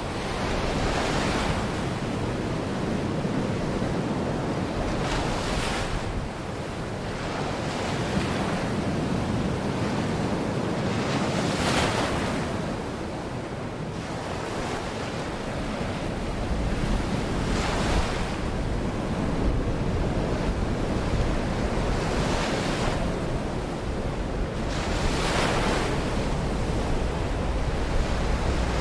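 Baltic Sea waves washing onto the beach, each surge swelling and fading every few seconds, with wind rumbling on the microphone.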